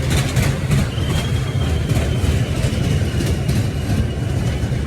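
Dragon train amusement ride running: a steady low rumble with scattered rattling clicks.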